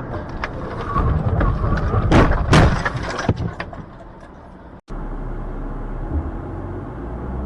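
Car collision: a run of cracks and crunching impacts over about two seconds, loudest in the middle, then steady engine and road noise.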